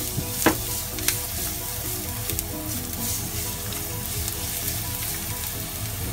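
Minced garlic sizzling in hot cooking oil in a nonstick frying pan, stirred with a plastic spatula that taps and scrapes against the pan a few times, the sharpest tap about half a second in.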